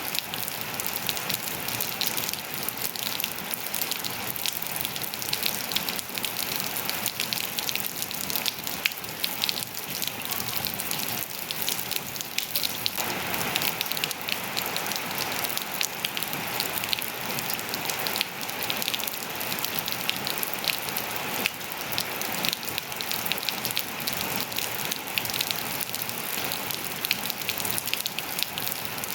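Steady rain falling on hard surfaces and foliage, a dense patter of many small drop impacts with no let-up.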